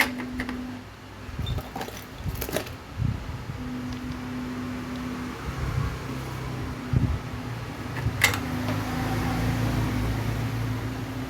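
Steady low mechanical hum, with a higher humming tone that cuts in and out every second or two, and a few sharp clicks at the start, about two and a half seconds in, and about eight seconds in.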